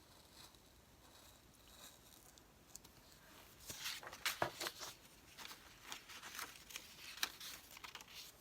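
Paper being handled: rustling and crinkling with a run of short crackles and taps starting about three and a half seconds in, the sharpest two near four and a half and seven seconds.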